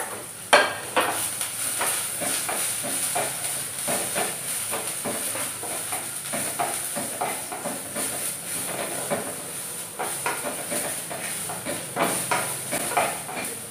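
Julienned carrots sizzling as they fry in hot oil in a wok, with a wooden spatula scraping and ticking against the pan as they are stirred. A sharper knock comes about half a second in.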